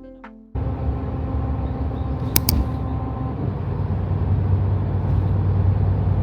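Steady low rumble with a constant hum, like a vehicle moving, heard from inside, with two quick clicks about two and a half seconds in.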